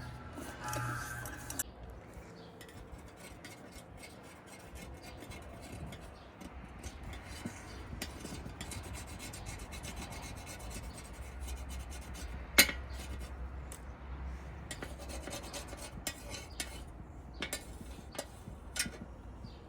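Steady rasping and rubbing, with scattered light clicks and one sharp knock a little past halfway. Soft music ends about a second and a half in.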